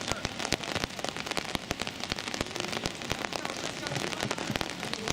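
Rain pattering, a dense irregular ticking of drops.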